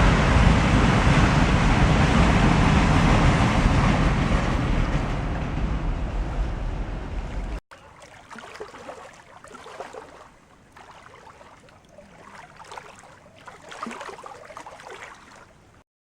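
Rolling rumble of a Ro-Ro freight train's wagons crossing a river viaduct, fading slowly as the train moves away. It cuts off abruptly about halfway through, leaving only faint, scattered sounds.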